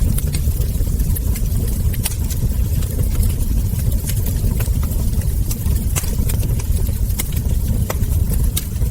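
Wood fire crackling, with sharp pops and crackles of burning logs and embers scattered irregularly over a steady low rumble.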